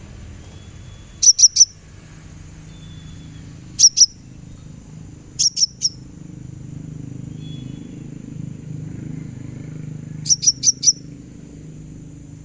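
Brown-throated sunbird (konin) giving short, sharp, very high chirps in four quick bursts of two to four notes. Beneath them run a steady faint high-pitched whine and a low rumble.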